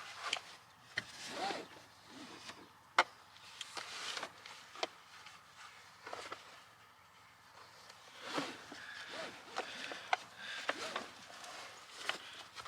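Handling noises of a child car seat being put into a car: scattered clicks and knocks with rustling, the sharpest click about three seconds in.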